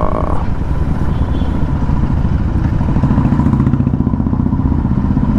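Royal Enfield Continental GT 650 parallel-twin engine running loud through an aftermarket Thrive exhaust while under way, its note strengthening about three seconds in.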